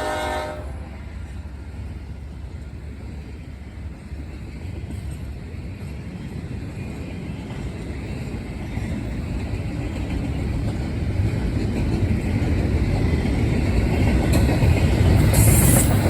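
A Norfolk Southern train's horn cuts off about half a second in, then the low rumble of the approaching diesel locomotives grows steadily louder.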